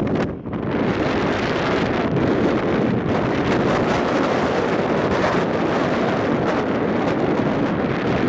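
Wind buffeting the microphone aboard a moving ferry: a loud, steady rush of noise, with a brief drop about half a second in.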